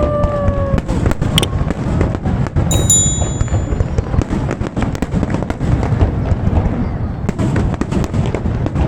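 Fireworks display going off: a dense, irregular run of bangs and crackles over a low rumble, with a brief whistling tone near the start.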